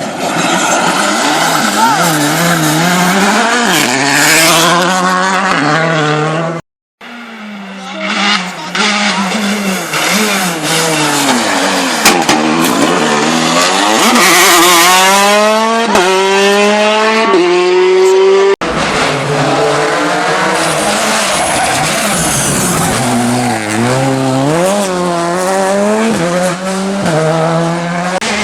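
R5-class rally cars' turbocharged 1.6-litre four-cylinder engines at full throttle on a stage, in a few edited passes: the engine note rises and dips through corners, then climbs repeatedly in the middle pass, dropping sharply at each upshift. The sound cuts out briefly about seven seconds in, and switches abruptly to another car near two-thirds of the way through.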